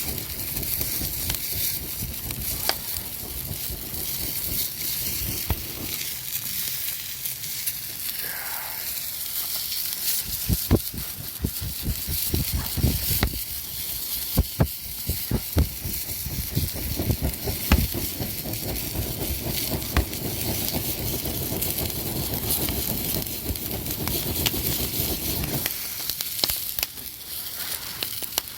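Wood campfire hissing steadily, with sharp crackles and pops bunched in the middle stretch; a low rumble underneath drops away near the end.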